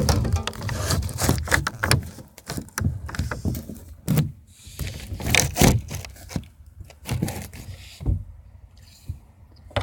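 Irregular knocks, bumps and scraping noises, close and loud, with no steady rhythm.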